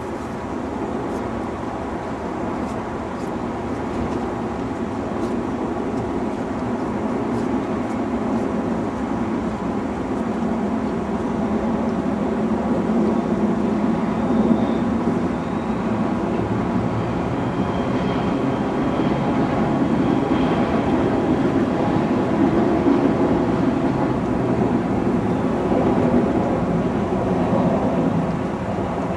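Diesel multiple-unit passenger train crossing a steel cantilever railway bridge overhead: a steady rumble that builds slowly and eases off near the end.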